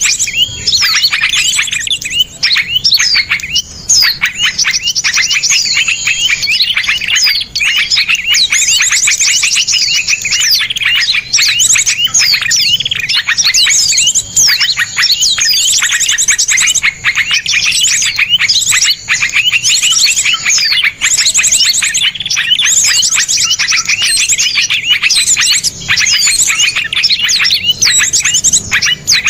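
Dense song of small songbirds: sharp, rapid calls and fast trills overlapping with barely a pause. This is a masteran recording, meant for songbirds to learn from.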